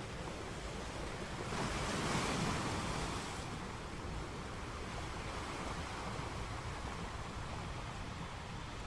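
Sea surf washing ashore: a wave breaks about two seconds in, swelling louder for a couple of seconds, then settles back into a steady rushing wash.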